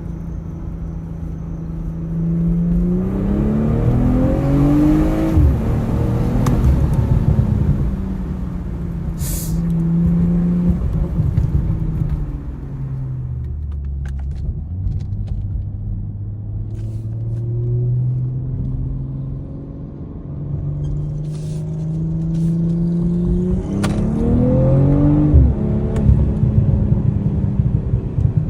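BMW M440i's turbocharged 3.0-litre B58 inline-six running under load: twice, about three seconds in and again past the twenty-second mark, the revs climb steeply and then drop, with steadier running between and a slow fall to low revs around the middle.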